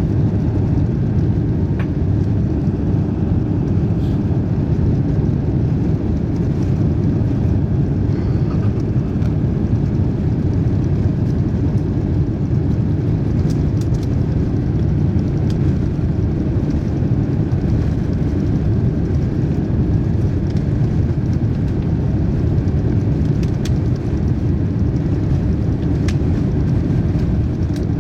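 Airbus A350-900's Rolls-Royce Trent XWB jet engines at high thrust during departure, heard from inside the cabin as a loud, steady low rumble.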